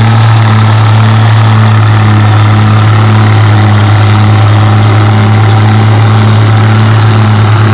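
Farmall 806 tractor engine working under load as it pulls the sled close by: a loud, steady drone with a slight regular pulsing.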